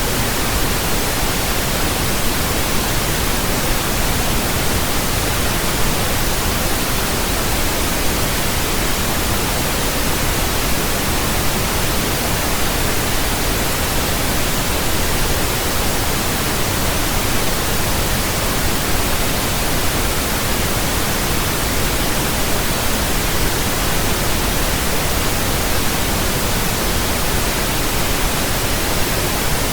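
Steady pink noise: an even, flat hiss with a soft low rumble beneath it, unchanging throughout.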